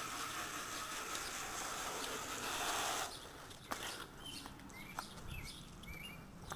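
Garden hose spraying water as the motorcycle is rinsed, shutting off suddenly about halfway through. Afterwards birds chirp a few times, with a couple of sharp clicks.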